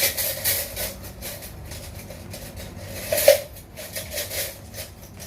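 A metal spoon scraping and clinking against a cup and sugar container as brown sugar is spooned into tea. There are irregular small scrapes and taps, with one sharper clink about three seconds in.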